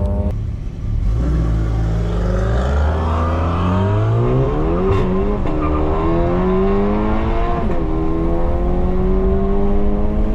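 Big-turbo Volkswagen Mk7 GLI's turbocharged four-cylinder engine at full throttle on a drag-strip run, launching and then revving up through the gears with quick upshifts about five and eight seconds in. It is a launch the driver says he botched with the launch control.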